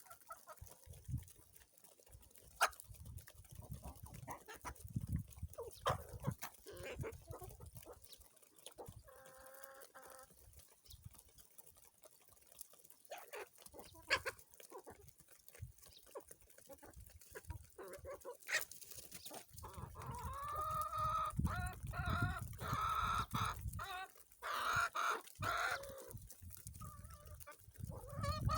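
Chickens clucking and calling, with a run of louder drawn-out calls about two-thirds of the way in, among scattered knocks and a low rumble.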